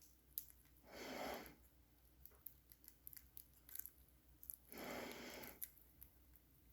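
Faint small clicks and crackles of lovebirds cracking open sunflower seeds with their beaks, with two soft breathy hisses, one about a second in and one near the end.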